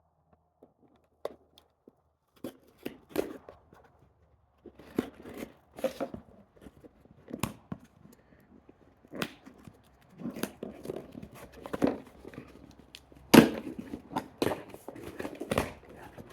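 A cardboard shipping box being opened by hand: irregular tearing and rustling of tape and packaging with small knocks, busier in the second half, the loudest tear about thirteen seconds in.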